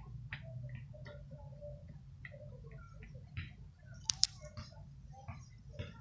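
A bird pecking at and eating small seeds: a scatter of small ticks and short soft sounds, with two sharp clicks close together about four seconds in.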